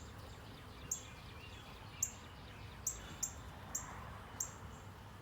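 Birds chirping: a sharp, high chirp repeats about once a second, with fainter bird calls behind it.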